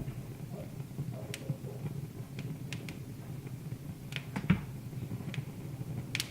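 Wood fire in a fireplace crackling: a steady low rumble of burning with about a dozen sharp, irregular pops and snaps, the loudest about four and a half seconds in.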